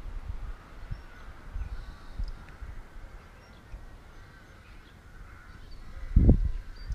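Faint bird calls in the background, with a few low bumps on the microphone, the loudest about six seconds in.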